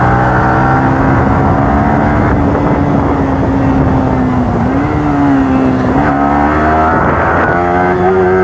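Motorcycle engine running under way at mostly steady revs, its pitch dipping briefly about halfway through and rising a little later on as the throttle changes.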